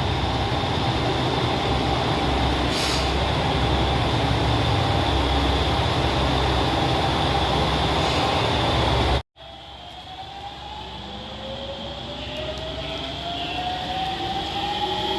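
A train running past with a loud, steady rumble. After a cut, a train pulls away with a whine that rises steadily in pitch as it speeds up.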